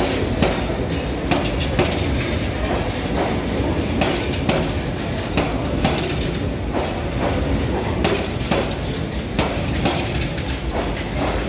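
Kalni Express passenger train running on the rails: a steady rumble with sharp, uneven clacks about once or twice a second as the wheels pass over rail joints.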